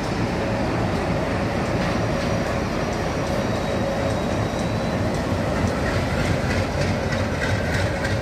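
A train running past close to the platform, with a continuous rumble of wheels on rail. In the second half the rhythmic clickety-clack of wheels over rail joints becomes distinct.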